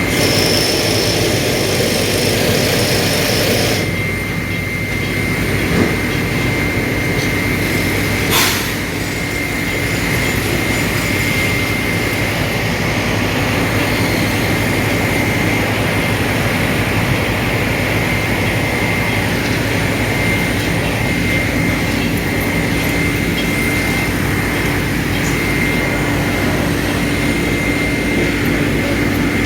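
Heavy diesel earthmoving machinery running steadily, with a thin steady high tone over the engine noise and one sharp knock about eight seconds in.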